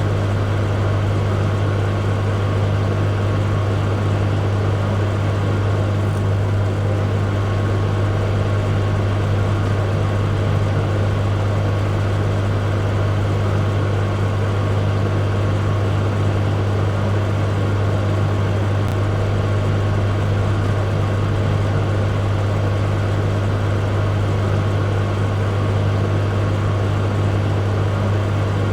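Microwave oven running: a steady low hum over an even rushing noise, unchanging throughout.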